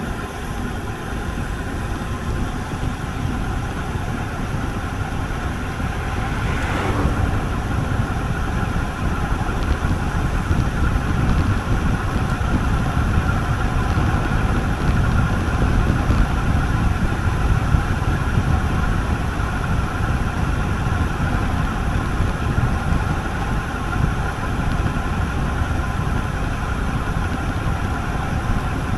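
Steady rush of wind on the microphone and road noise from a road bike riding along, heaviest in the low end. It grows a little louder after about eight seconds.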